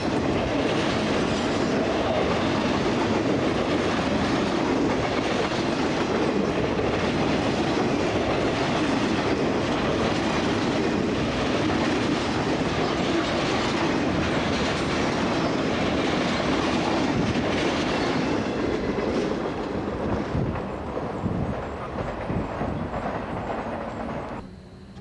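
Freight train cars rolling past with wheels clacking over the rail joints. The sound is steady, then fades from about three quarters of the way through and drops away suddenly near the end.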